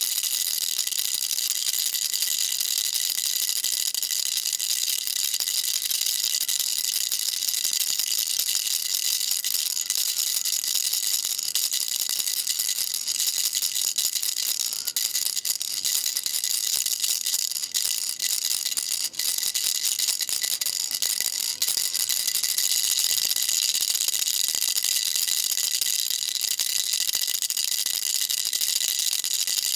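Baby rattle shaken without pause: a dense, steady, high-pitched rattling with no gaps.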